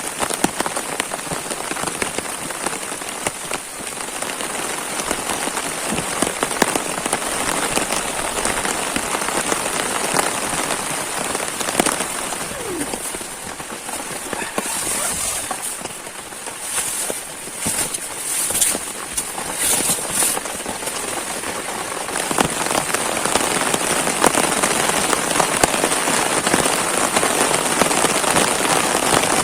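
Heavy rain falling steadily, full of separate drop hits on a surface. It eases a little in the middle and picks up again over the last third.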